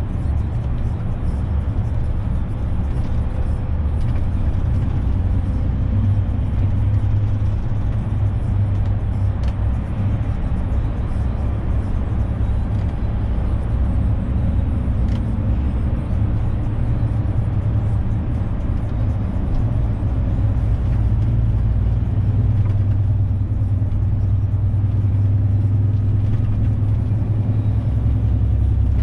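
Renault truck's engine running steadily on the move, a continuous low drone.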